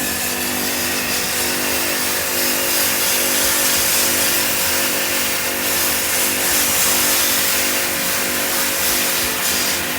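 A small motor-driven machine running steadily: a low hum of several tones with a strong hiss over it.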